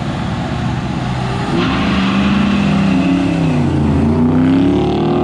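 Two Ford Mustang V8s, a Fox Body 5.0 and a newer Mustang, accelerating hard from a launch in a street race. The engines run steadily at first. About a second and a half in they get louder, and their pitch climbs and drops again and again through the gear changes.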